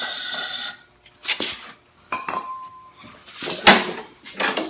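A short hissing spray of aerosol carburetor cleaner into the mower's carburetor intake, cutting off just under a second in. It is followed by several knocks and clatters of metal parts being handled on the mower, the loudest about two-thirds of the way through.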